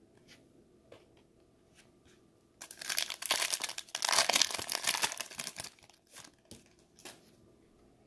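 A foil trading-card pack being torn open and crinkled: about three seconds of loud crinkling and tearing, with a few light taps from handled cards before and after.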